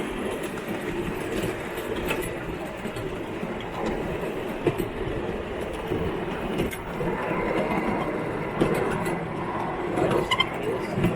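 Garden railway train running along its track: a steady rolling rumble with scattered irregular clicks of the wheels on the rails.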